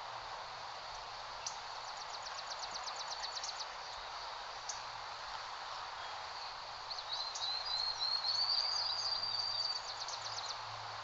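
Steady outdoor breeze hiss. A small bird chatters in a rapid run of high ticks early on, then sings a high warbling trill from about 7 to 10 seconds, the loudest part.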